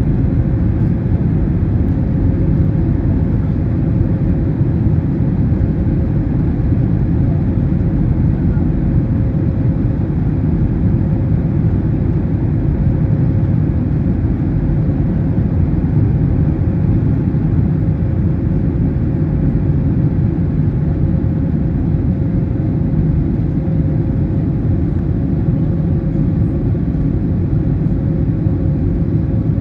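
Airbus A321neo's Pratt & Whitney PW1100G geared turbofan engines heard from inside the passenger cabin, a steady loud roar during the climb-out after take-off, with a thin steady hum held on top.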